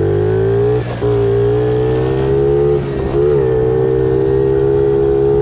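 Small pit bike engine pulling hard under throttle, its note climbing in the first second and then holding high, with two brief dips in revs about one and three seconds in.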